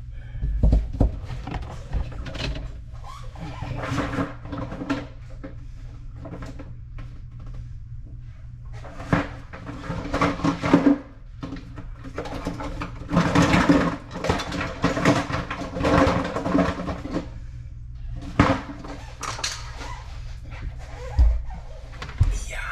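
Irregular knocks, clicks and rustling from a reverse osmosis filter cartridge assembly and its parts being handled and fitted into the cramped cabinet under a kitchen sink. There is a low steady hum underneath.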